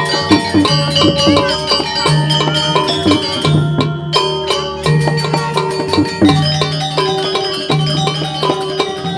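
Balinese gamelan music: many ringing metallic notes struck in quick succession over a low tone that comes back about once a second.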